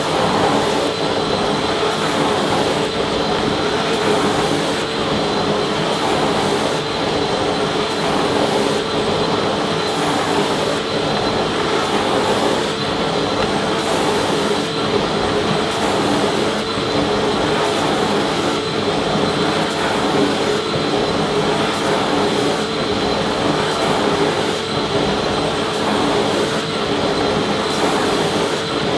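Vacuum cleaner running steadily: an even rushing motor noise with a held mid-pitched hum and a faint high whine, never changing.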